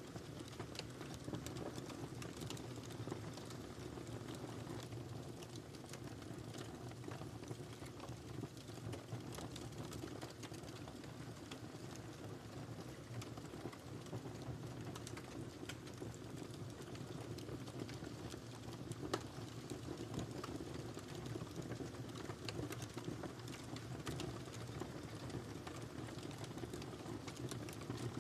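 Wood fire burning in a fireplace, with a steady low rushing and frequent small, irregular crackles and pops; one sharper pop about two-thirds of the way in.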